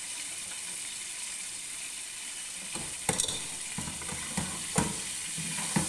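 Chicken pieces and ground spice masala sizzling steadily in hot oil in a pot. From about three seconds in, a spatula knocks and scrapes against the pot several times as the meat is stirred.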